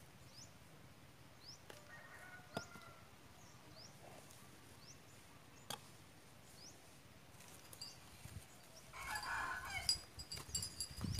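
Quiet outdoor background: a small bird chirps short rising notes every second or so, and about nine seconds in another bird gives a louder call lasting about a second. Hands rustle and press soil and rice husks in a planting pot near the end.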